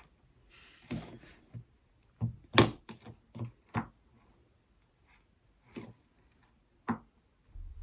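Irregular light knocks and taps, about ten of them, clustered in the first half with the loudest a little after two and a half seconds in: things being handled and set down on a hard surface.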